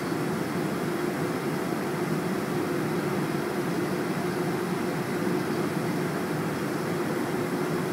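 Boeing 747-400ER jet noise: a steady rushing sound with a steady mid-pitched hum, holding an even level with no rise or fall.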